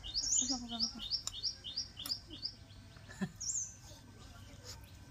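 A small bird calling a quick series of rising chirps, about four a second for two and a half seconds, then one more chirp about three and a half seconds in. A short low vocal sound comes under the first second.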